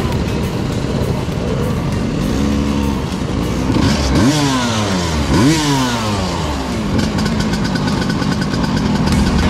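Small two-stroke moped and scooter engines running, blipped a few times in the middle: the pitch rises sharply and drops back.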